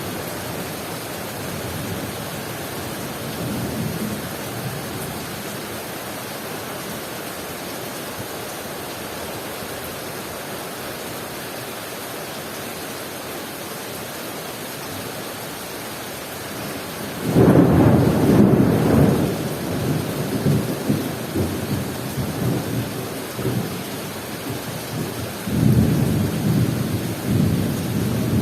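Heavy rain falling steadily. About seventeen seconds in, a loud clap of thunder breaks out and rumbles on for several seconds, and a second surge of rumbling comes near the end.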